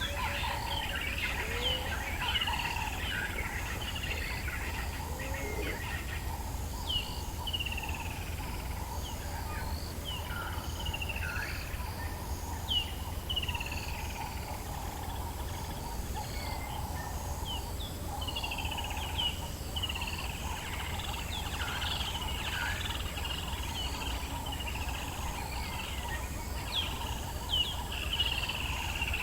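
Dawn chorus of several African bush birds: many short, downward-slurred whistles and chirps overlapping, over a steady low rumble.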